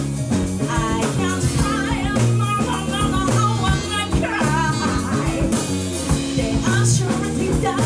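Live rock band playing a song: a singer's voice over guitar, bass and drums.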